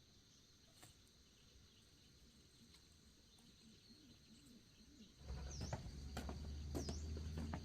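Faint outdoor ambience: insects chirring steadily. About five seconds in, a low steady hum and scattered knocks set in, along with a few short chirps that dip and rise in pitch.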